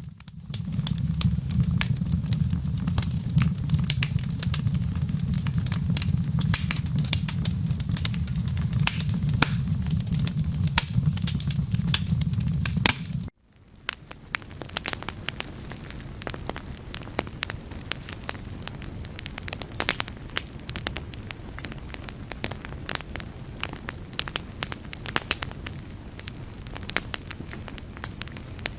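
Fire crackling with many small pops, over a strong low rumble for roughly the first half. The rumble stops abruptly about halfway through, and the crackling carries on more quietly.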